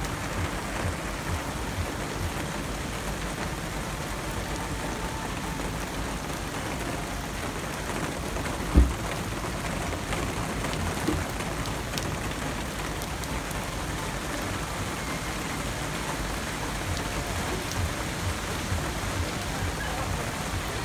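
Heavy rain falling steadily on a flooded street and its puddles, an even hiss of rain on water. There is one dull thump a little before the middle.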